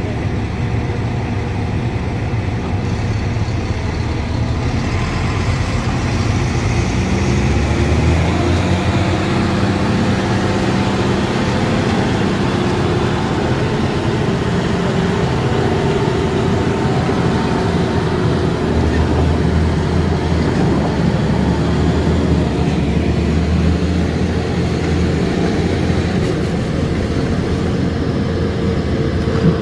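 Heavy truck engine running continuously under load, its pitch shifting up and down a few times.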